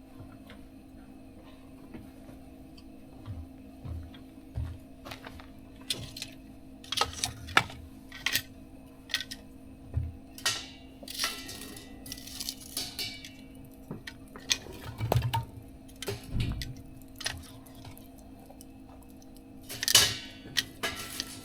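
Irregular clinks and scrapes of metal utensils, tongs or chopsticks against a grill grate and dishes, while meat is grilled and served. The loudest clink comes near the end.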